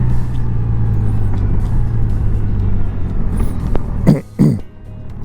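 Honda Gold Wing's flat-six engine running steadily on the move. About four seconds in there are two short, loud sweeps in pitch, and then the sound drops quieter as the bike slows.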